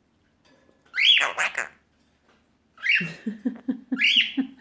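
Quaker parrot (monk parakeet) chattering in two bursts. About a second in comes a high arching squawk-like call. From about three seconds in there is another arching call over a quick run of low chuckling pulses.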